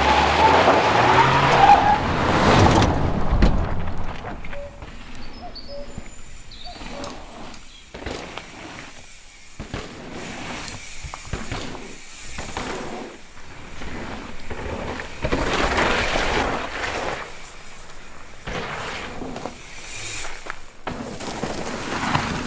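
Mountain bike ridden fast down a dirt trail: tyres skidding and rolling over the ground, with the Zipp ZM2 rear hub buzzing as it freewheels. It is loudest in the first few seconds, with further loud stretches near the middle and toward the end.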